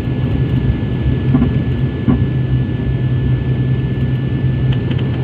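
Steady low hum and rumble of an airliner's engines and cabin air, heard inside the cabin as the plane taxis after landing, with a thin steady whine above it. A couple of faint short sounds come about a second and a half and two seconds in, and small ticks near the end.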